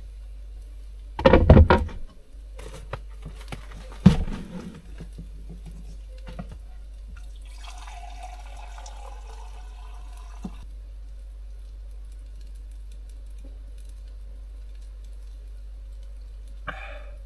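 Two loud knocks and clatters of cookware, then water running or pouring for about three seconds, then one short clatter near the end, over a steady low hum.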